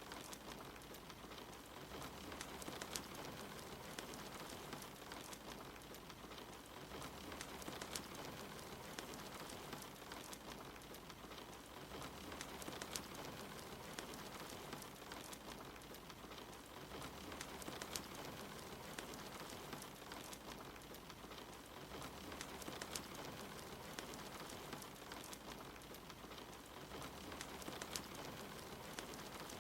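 Steady soft rain hiss, with occasional sharp pops and crackles from a wood fire.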